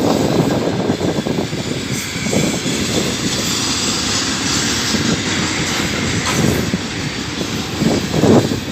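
Container flatcars of a freight train rolling past close by: a steady rumble of steel wheels on the rails, with quick clatter running through it.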